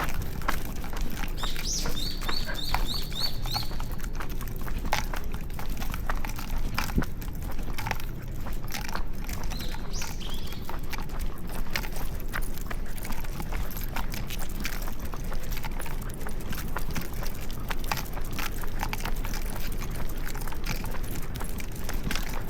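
Footsteps and scattered clicks on pavement during a walk, over a low steady street hum. About two seconds in, a bird gives a quick run of about six high chirps.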